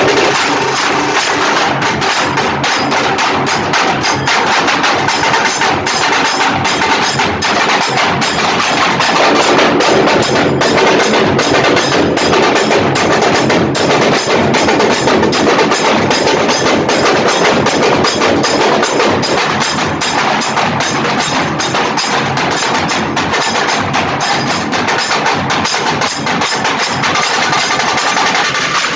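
Percussion ensemble playing a dhamal 'tod' beat: a dense, fast, loud stream of sharp drum strokes. The texture of the drumming changes about a third of the way in and changes back about two-thirds of the way through.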